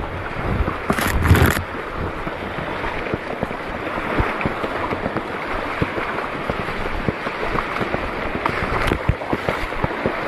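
Shallow sea water sloshing and splashing steadily, with a louder splash about a second in.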